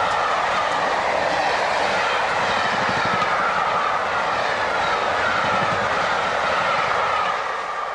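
Passenger train hauled by the A1 steam locomotive Tornado passing at speed: a loud, steady rush of wheels on rail with a slowly falling whine, starting to fade near the end.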